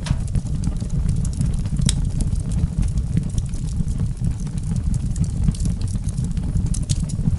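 Campfire crackling: a few sharp pops, seconds apart, over a steady low rumble and soft hiss.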